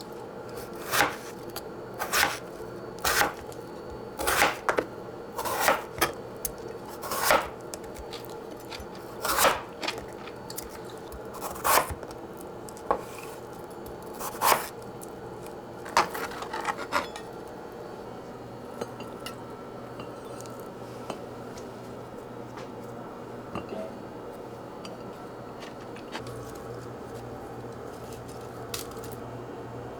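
Dishes and utensils clinking and knocking against each other and the counter, about one sharp clink a second, thinning out to a few faint ones after about 17 seconds.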